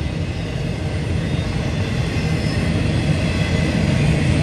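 Freight train of autorack cars rolling past: a steady low rumble of wheels on rail, growing a little louder.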